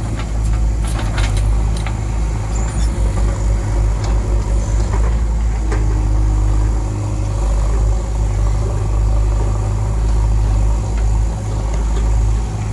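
Diesel engines of a backhoe loader and tractor running steadily with a deep rumble, with a few sharp knocks in the first two seconds and a brief steady whine about six seconds in.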